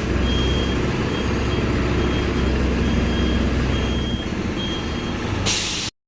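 Mercedes-Benz OF-1721 bus's diesel engine running with a low rumble while its reversing alarm beeps about once a second. About five and a half seconds in comes a short burst of hiss, then the sound cuts off suddenly.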